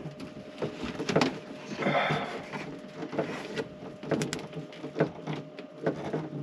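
Irregular clicks and knocks of a screwdriver and screws being worked by hand into a trailer wall panel, with a brief scraping rustle about two seconds in and a faint steady hum underneath.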